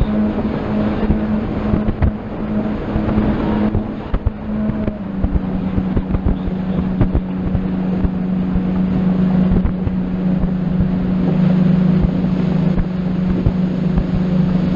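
Motorboat engine running steadily under way, with wind and water rushing over the microphone; the engine note drops slightly about five seconds in.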